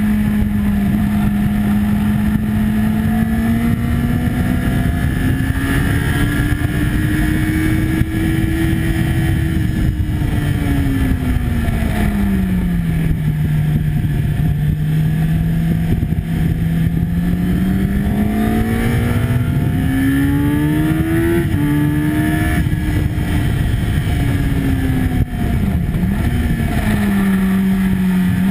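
Sport motorcycle's engine heard from onboard at track speed over steady wind rush. The engine note rises and falls with the throttle: it drops away about ten seconds in, climbs again later with two short steps as it shifts up, and dips briefly near the end.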